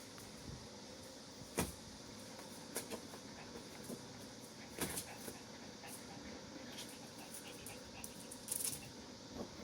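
Dogs playing with a stuffed toy: scattered short knocks and clicks, the sharpest about a second and a half in and a quick cluster near the end, over a faint steady hiss.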